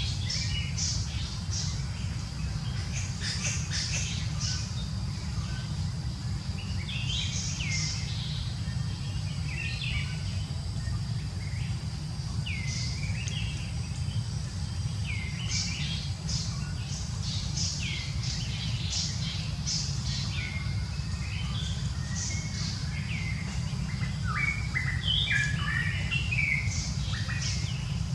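Birds chirping again and again, short high calls that curve in pitch, livelier near the end, over a steady low rumble and a thin steady high tone.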